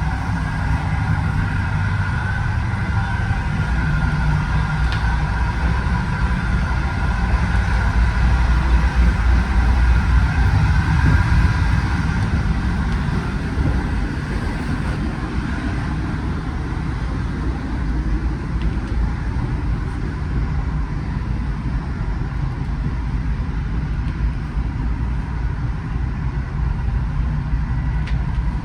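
Steady low rumble of a moving passenger train heard from inside a carriage, with a faint high whine that fades out about halfway through.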